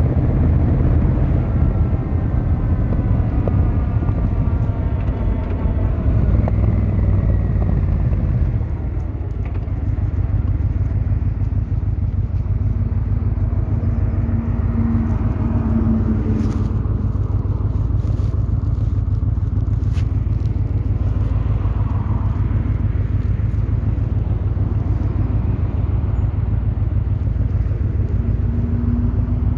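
Yamaha XVZ1300 Royal Star's V4 engine and exhaust on the move, its note falling as the bike slows for the first several seconds, a short drop near eight seconds, then a steady low cruising rumble.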